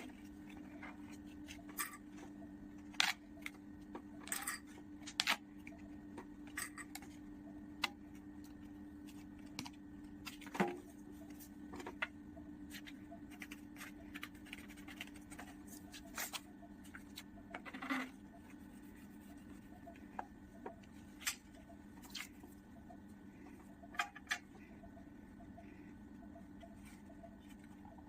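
Scattered light clicks, taps and paper rustles from handling paper cutouts and pasting them onto a paper plate, over a steady low hum.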